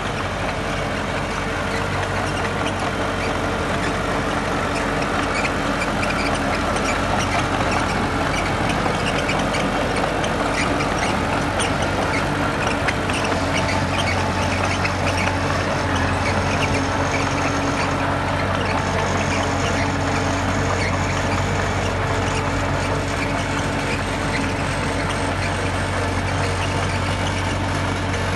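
Heavy diesel construction machinery running steadily, a low engine drone under a constant patter of metallic clanks and squeaks.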